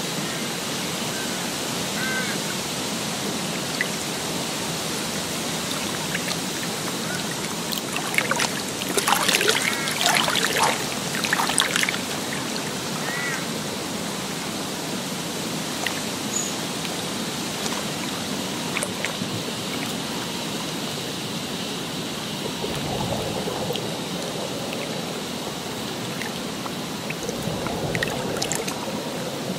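Steady rush of running water, with a stretch of louder splashing in the middle and a few short chirping calls.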